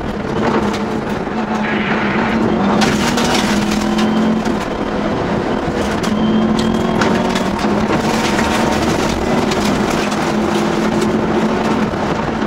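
Subaru Impreza N9 Group N rally car's turbocharged flat-four engine heard from inside the cabin at speed, its pitch rising and falling as it is driven hard, with occasional sharp clicks and knocks.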